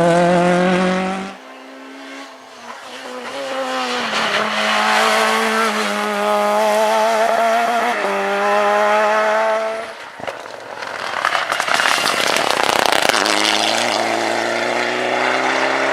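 Rally car engines running hard, the note climbing and dropping as the cars accelerate and lift, in a string of short clips that cut abruptly from one to the next. About two-thirds of the way through there is a few seconds of rough noise with no clear engine note.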